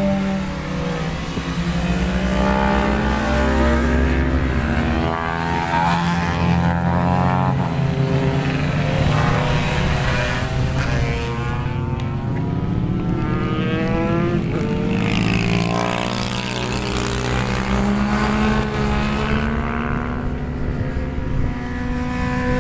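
Racing motorcycles lapping a circuit, several engines overlapping, their pitch rising and falling as they rev through the gears and pass by.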